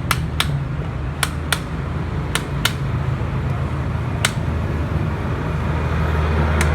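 A steady low hum with sharp clicks over it, several in quick pairs during the first three seconds and a few more later.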